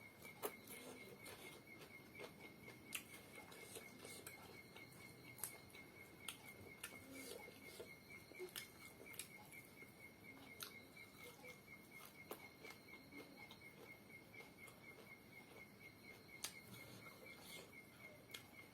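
Faint eating sounds: scattered soft clicks and smacks of chewing at irregular intervals, over a faint steady high-pitched pulsing tone.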